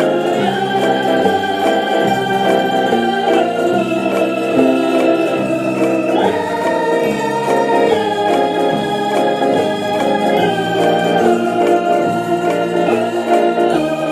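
Background music led by an electronic organ, playing sustained chords over a steady bass line.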